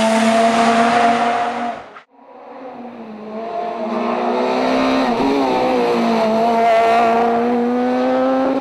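A rally car's engine at high revs close by, cut off abruptly about two seconds in. Then a second rally car's engine approaching and growing louder; its note dips briefly, then climbs steadily as it comes through.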